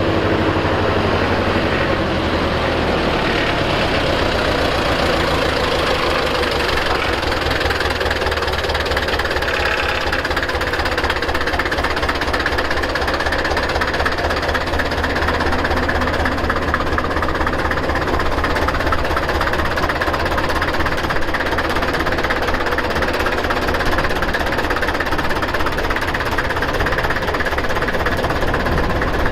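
Deutz F4L514 airport tractor's air-cooled four-cylinder diesel engine running steadily, with a fast, even clatter of firing pulses.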